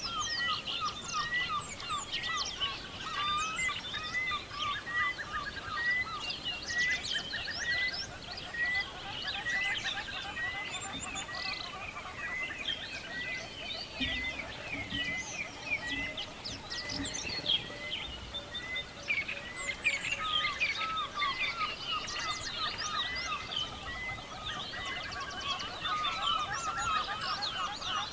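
Dense chorus of many birds calling at once, short chirps and sweeping notes overlapping, with one call repeated evenly about every two-thirds of a second through the first two-thirds. The chorus thins for a few seconds around the middle, then fills in again.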